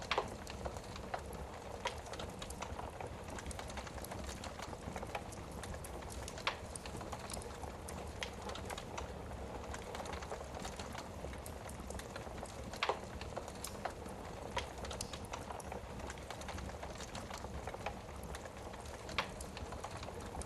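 Wood fire burning in a fireplace: a steady hiss of flame with irregular crackles and sharp pops of burning logs, a few louder snaps standing out.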